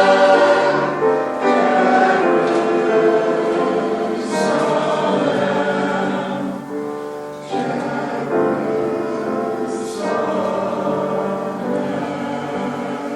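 A choir singing sacred music, a piece from a church cantata, in sustained sung chords.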